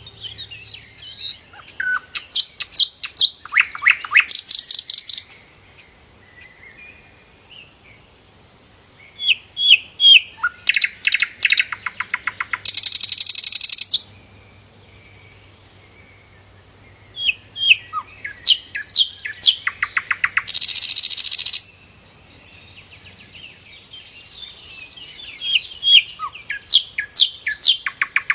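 Sikatan londo flycatcher singing: four song bouts, each opening with a few thin chirps, running into a quick series of sharp descending notes and ending in a fast, dense high trill, with short quiet pauses between bouts.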